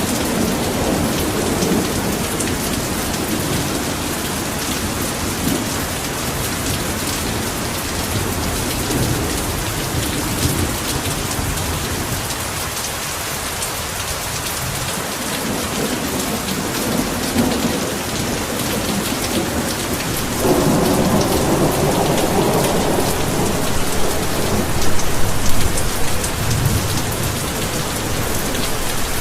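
Heavy rain pouring steadily, with thunder rumbling low under it at the start and again, louder, about two-thirds of the way in.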